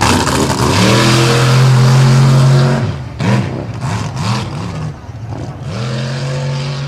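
Supercharged big-block V8 mud truck engine revving hard: it climbs to high revs and holds for about two seconds, drops off, blips up and down a few times, then climbs and holds high again.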